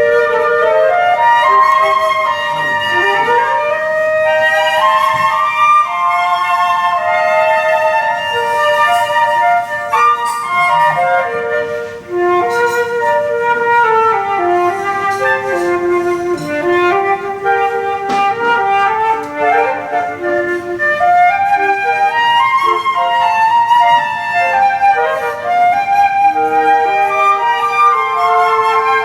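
Three flutes playing a melody in harmony: a flute trio arrangement of a pop song.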